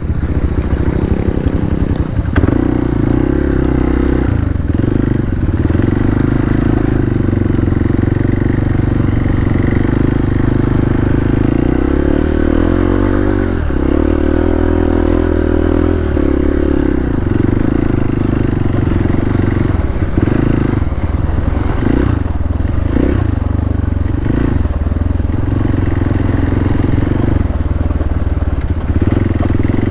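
Hero Xpulse 200's single-cylinder engine running at low revs as it is ridden, its pitch rising and falling with the throttle.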